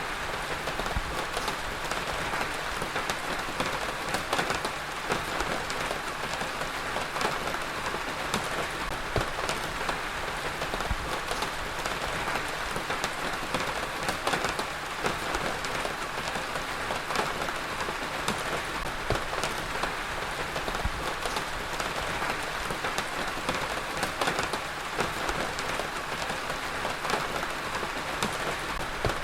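Heavy rain falling steadily on a surface, a dense even hiss of rain with many individual drop patters through it.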